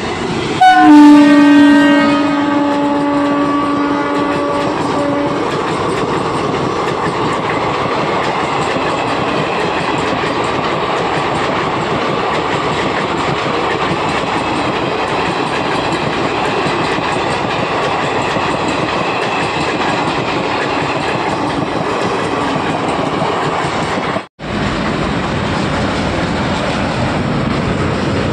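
An Indian Railways electric locomotive sounds its horn in one long blast about a second in, the loudest sound here. Its coaches then pass close by with a steady, loud running noise of wheels on rail. Near the end the sound breaks off for an instant and train noise picks up again.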